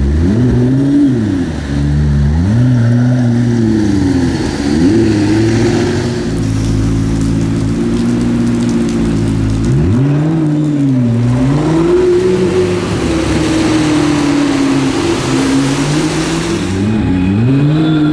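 McLaren P1's twin-turbocharged V8 revving up and down repeatedly as it moves in slow traffic, with several short rises and falls in pitch and a long sweep up from low about ten seconds in.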